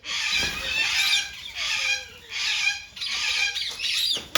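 Parrots squawking: a run of about six harsh, loud calls, one roughly every two-thirds of a second, with a sharp click at the very end.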